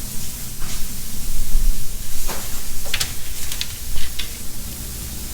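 Donuts deep-frying in oil at about 375 °F, a steady sizzling hiss with a few short clicks.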